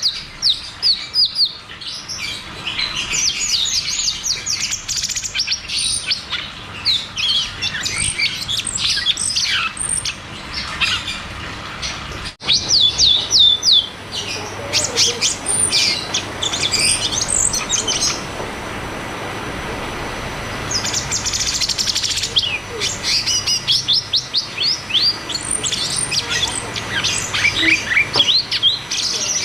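A cucak cungkok singing: bursts of rapid, quickly repeated downward-sweeping high notes rolled together into trills, broken by short pauses. A single sharp click sounds about twelve seconds in.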